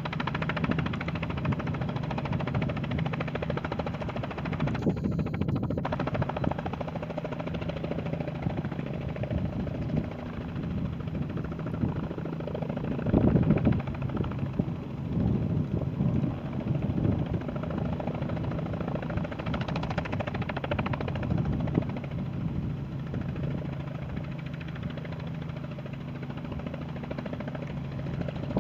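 Robinson R44 helicopter running, a steady low drone of engine and rotor, with louder rumbling swells around the middle.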